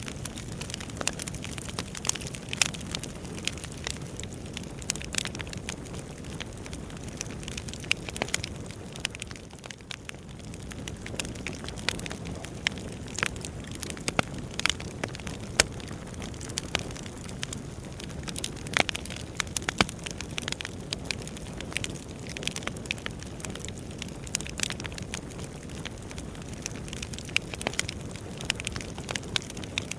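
Burning firewood crackling: irregular sharp pops and snaps over a steady low rush of flame.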